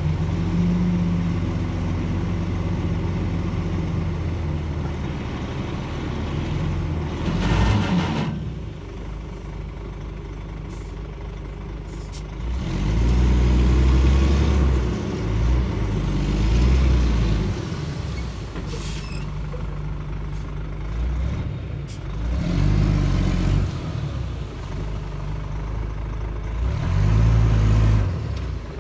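Shantui DH17C2 crawler bulldozer's diesel engine working as the dozer pushes soil, loading up and easing off several times in long surges. A few sharp clanks are heard between them.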